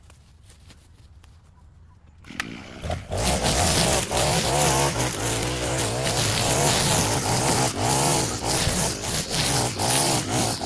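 Small petrol engine of a yard tool starting up about two seconds in, then running loud with a wavering pitch.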